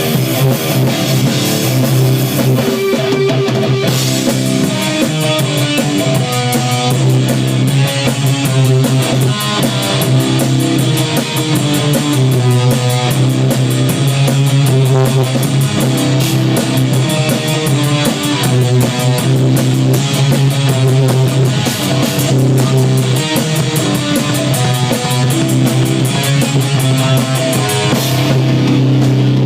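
Live rock music: guitar with drum kit playing, the cymbals keeping a steady fast tick from about four seconds in until near the end.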